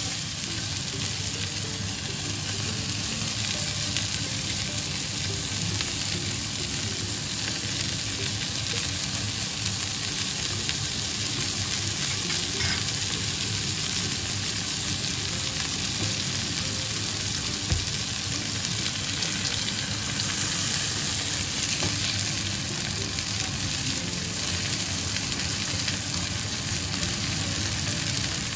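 Pork-belly-wrapped tofu rolls sizzling steadily in hot oil and butter in a frying pan, with one sharp knock about two-thirds of the way through.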